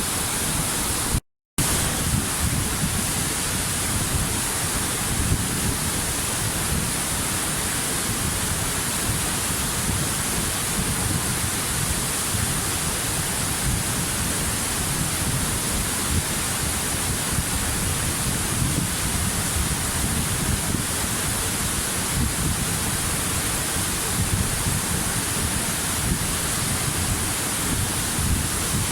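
Waterfall rushing, a steady, dense roar of falling water. It cuts out for a split second about a second in.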